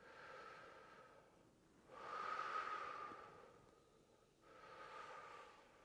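A person breathing slowly and audibly, three long breaths, the middle one loudest, in time with slow tai chi-style movements.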